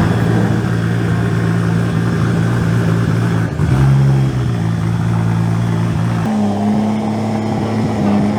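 Car engine running at steadily held revs, with a brief rise in pitch about three and a half seconds in and a step up to a higher, steady pitch a little past six seconds.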